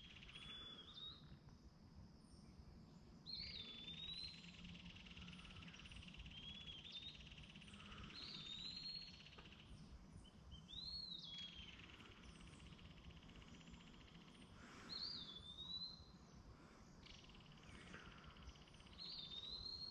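Faint bird calls: a short rising-and-falling whistle repeated about every two to three seconds. A steady high trill, like an insect chorus, runs behind it through the middle stretch.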